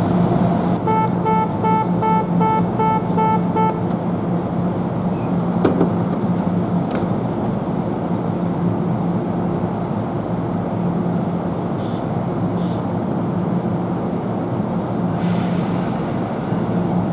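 Steady low hum of a train standing at the station platform. About a second in, a rapid series of evenly repeated chiming tones sounds for about three seconds.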